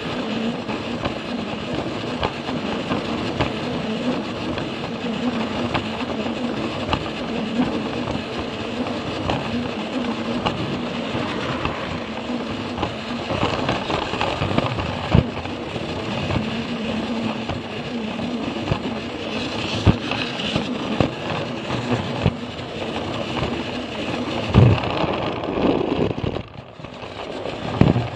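Plarail toy train's battery motor and gearbox running steadily with a whir, the wheels clicking over the joints of the plastic track. The sound dips briefly near the end, followed by a knock.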